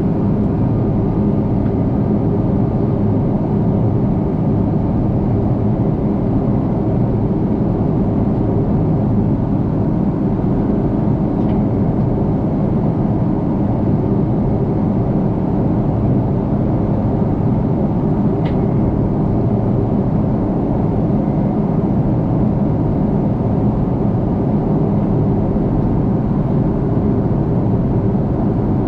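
Steady drone of an Airbus A330-300 with Rolls-Royce Trent 700 engines, heard inside the passenger cabin, even in level with no rise or fall. Two faint clicks, about 11 and 18 seconds in.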